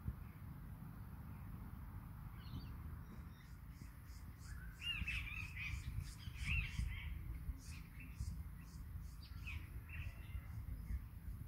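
Birds calling outdoors, with wavering calls loudest about five to seven seconds in. A regular high ticking, about two or three a second, runs from about three seconds in, over a steady low rumble.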